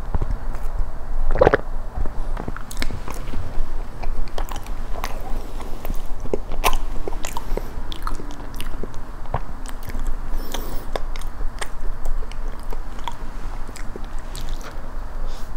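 Close-miked eating sounds: a moist chocolate cream cake being bitten and chewed, with many sharp wet mouth clicks and smacks. A sip through a metal straw comes at the start.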